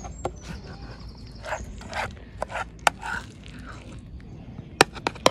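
Serving utensil scraping food out of a cooking pan, with several sharp clinks and knocks against the pan, loudest and closest together near the end.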